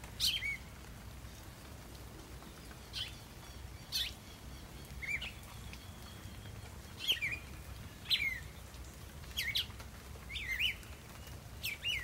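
A bird calling again and again: about nine short, high calls, each dropping steeply in pitch and ending with a brief flick, spaced roughly one to two seconds apart.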